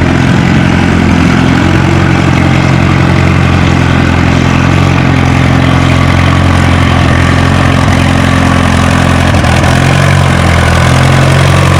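Case farm tractor's engine running steadily under heavy load during a sled pull, its pitch stepping up slightly near the end.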